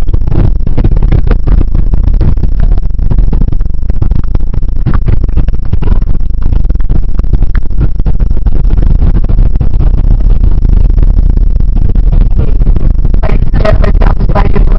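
Loud, steady low rumble of a Boeing 767-400 airliner heard from inside the cabin during landing, with frequent rattles and knocks of the airframe and cabin fittings.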